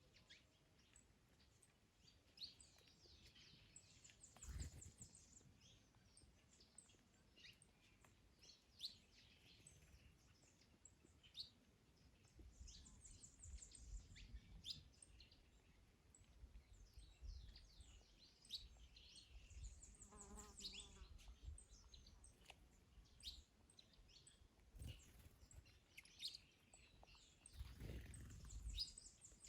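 Quiet songbird chorus: many short chirps and calls, with a high rapid trill that comes back several times. A low wind rumble rises and falls beneath it.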